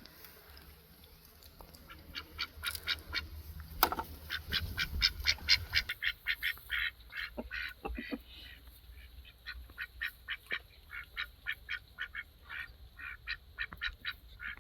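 Domestic fowl calling: a long run of short calls repeated several times a second, starting about two seconds in.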